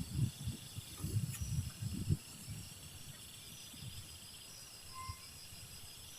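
Insects chirping and trilling in a steady high chorus, with a few low muffled rumbles in the first two seconds and a brief faint tone about five seconds in.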